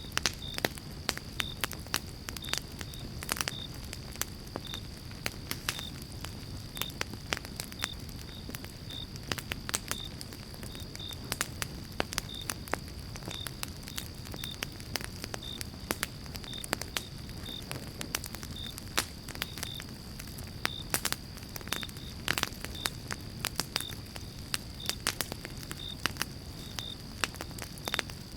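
Pine-log campfire crackling and popping, with many sharp irregular pops over a steady low rumble of flames. A faint steady high tone and faint regular short high chirps run underneath.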